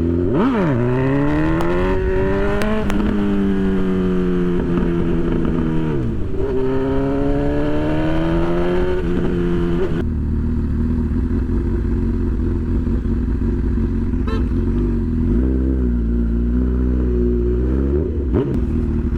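Honda CB1000 inline-four engine accelerating through the gears, its pitch climbing and dropping back at each shift, then settling to a steady low running note from about halfway, with one brief blip of throttle later on.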